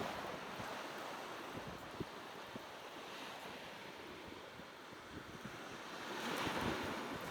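Sea waves washing on the shore, swelling near the start and again about six seconds in, with wind buffeting the microphone and a few faint pops.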